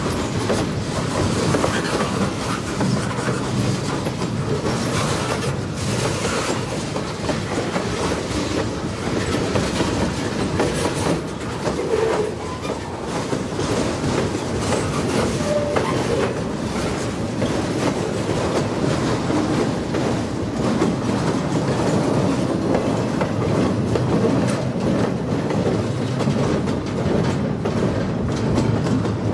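Freight cars of a mixed train (loaded gondolas, a boxcar, an autorack, a covered hopper) rolling past, their wheels clacking steadily over the rail joints.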